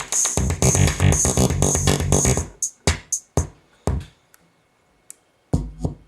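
KORG Kaossilator synthesizer playing an electronic drum-machine and synth loop with a steady, fast beat, which stops about two and a half seconds in. A few single hits and a short pause follow, then a brief burst of sound near the end.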